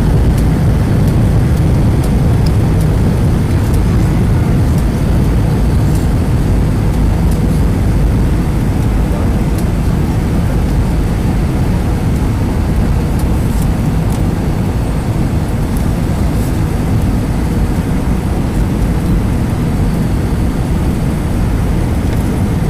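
Steady airliner cabin noise in flight: the even, low rush of the engines and airflow heard from inside the passenger cabin.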